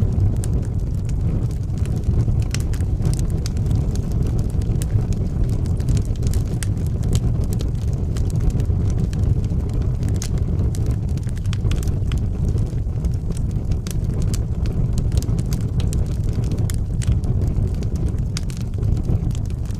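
Wood fire burning in a fireplace: a steady low rumble with frequent small, irregular crackles and pops.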